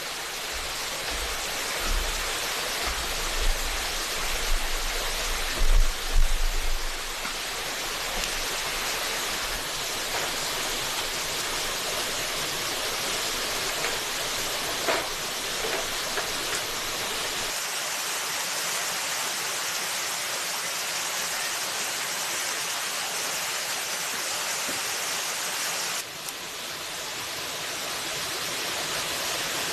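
Forest creek water rushing steadily, with a few low thumps in the first seven seconds. The rushing drops slightly about 26 seconds in, then slowly builds back.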